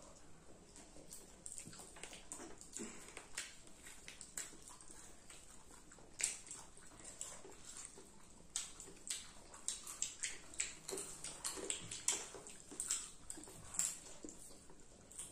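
Several people chewing popcorn with their mouths close to the microphone: soft crunches and wet smacks and clicks, coming thicker and louder about halfway through.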